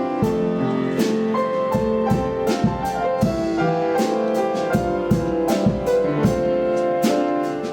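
A worship band playing an instrumental passage: piano or keyboard chords over a steady drum-kit beat.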